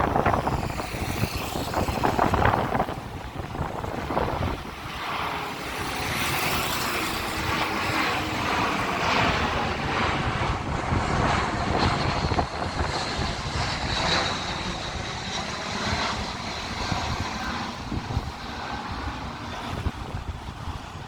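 Airbus A319 twin-jet aircraft passing overhead, a steady jet rush with a thin high whine from about halfway in for several seconds. Wind gusts on the microphone at the start.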